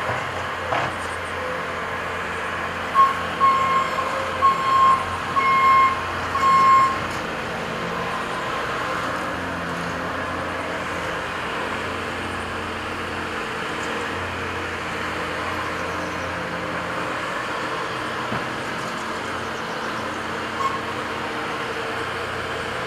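Diesel earthmoving machinery running steadily, with a back-up alarm beeping about five times, from about three to seven seconds in.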